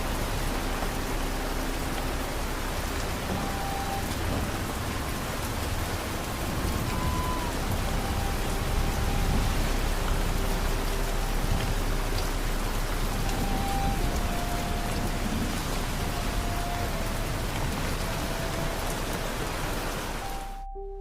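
Steady heavy rain falling, an even hiss with faint held notes of soft music underneath. The rain cuts off suddenly just before the end, leaving only the music.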